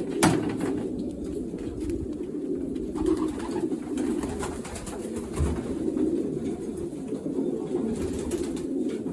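Many racing pigeons cooing together in a loft, a steady, overlapping low cooing, with a sharp click about a quarter second in.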